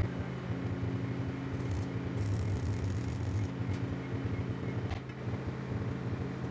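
A steady low machine hum, like an engine running at a constant speed, with one short click about five seconds in.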